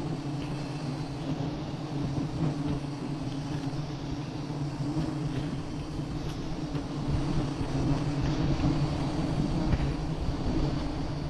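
Steady, dense buzzing of a mass of honeybees around an opened wild nest, rising and falling slightly in loudness.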